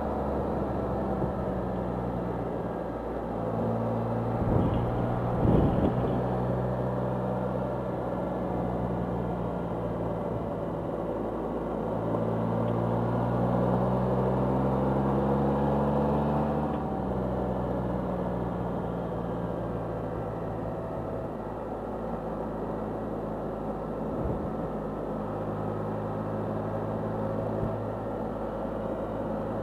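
A 2020 Can-Am Spyder's three-cylinder engine running at road speed with wind rush, heard from the rider's seat. Its note holds steady, climbs for a few seconds about twelve seconds in, then drops sharply. A few thumps about five seconds in.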